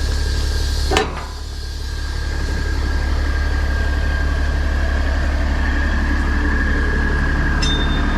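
Semi truck's diesel engine idling steadily, with a sharp click about a second in.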